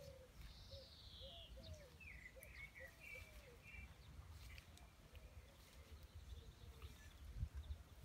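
Faint birdsong. About half a second in, a long whistle falls in pitch, followed by a few short chirps, over a run of short, low, arched notes that fades out after about four seconds.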